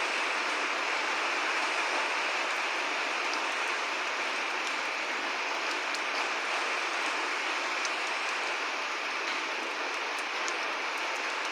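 Steady rain falling, an even hiss with a few sharp drop ticks now and then. No thunder.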